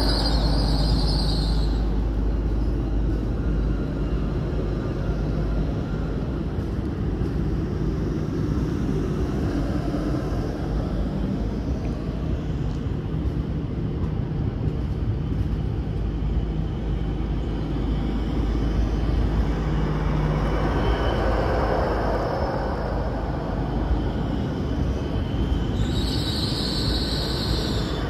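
A GWR Hitachi Intercity Express Train (Class 800-series) moving slowly along the platform, with a steady low rumble and hum. A high squeal sounds briefly near the start and again near the end.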